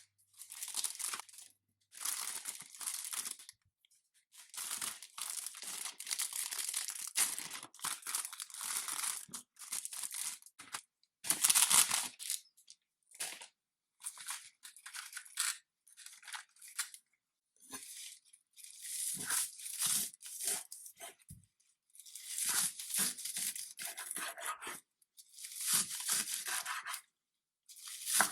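Repeated bursts of rustling, scraping noise, each a second or two long, broken by short silent gaps. The loudest burst comes about twelve seconds in.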